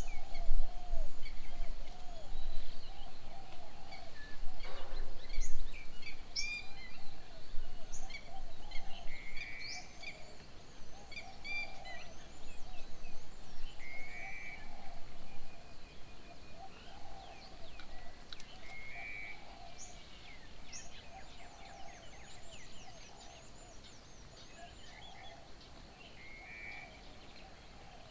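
Several birds calling together: a steady run of low repeated calls with higher chirps and whistles above them, and a short burbling call every four or five seconds. The birdsong grows fainter toward the end.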